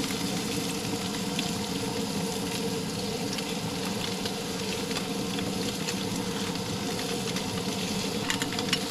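Tilapia fillets frying in a hot oiled pan, a steady sizzle as the fish blackens, with a few brief clicks near the end.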